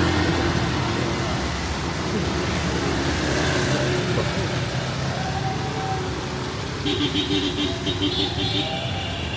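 City street traffic: motor vehicle engines running close by over a steady hiss, with a brief higher, pulsing tone near the end.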